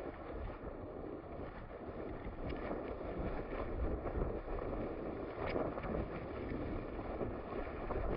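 Wind buffeting the microphone over a steady low rumble, with no clear pitched engine note.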